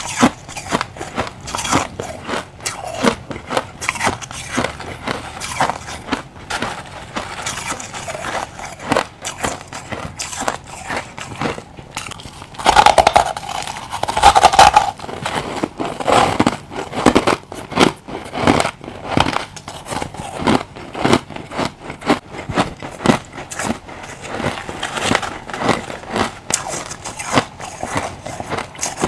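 A person chewing refrozen crushed ice close to the microphone: rapid, irregular hard crunches throughout. The loudest bites come about halfway through.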